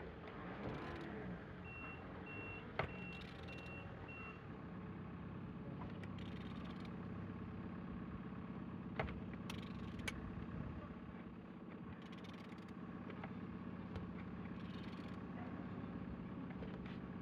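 A used engine being turned over slowly for inspection, giving faint scattered clicks and knocks over a steady low mechanical hum. About two seconds in, a row of about six short high beeps like a vehicle's reversing alarm sounds.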